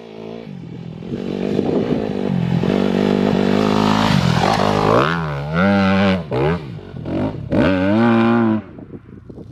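Dirt bike engine growing louder as it approaches, then revved up and down several times, its pitch rising and falling, before it drops away sharply near the end.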